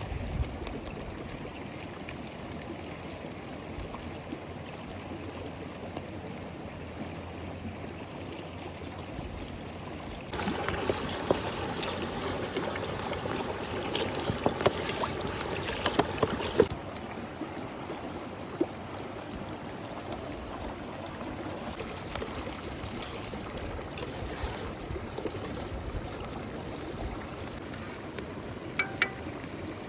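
River water flowing steadily. For about six seconds in the middle, a louder stretch full of crackles cuts in and out abruptly.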